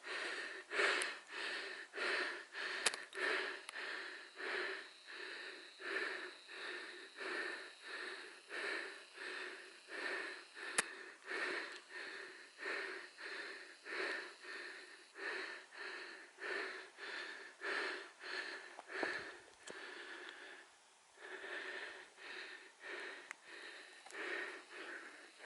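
A hiker breathing hard and rhythmically while climbing, about one breath a second, close to the microphone, with a brief pause about twenty seconds in.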